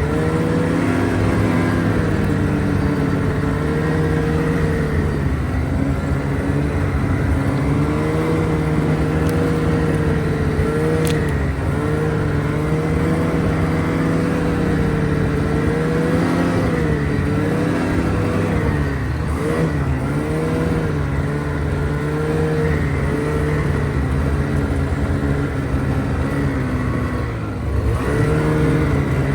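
Motor vehicle engine running under way at a steady pace, its pitch wavering up and down with the throttle. The pitch dips briefly about two-thirds of the way through, and the level drops for a moment near the end before the engine picks up again.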